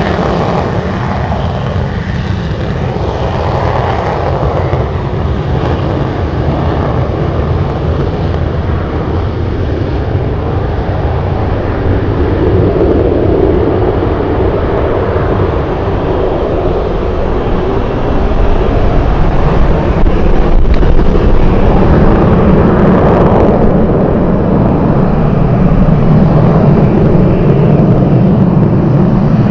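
Jet airliner engines running as the plane passes, a continuous rumble that grows louder about two-thirds of the way through.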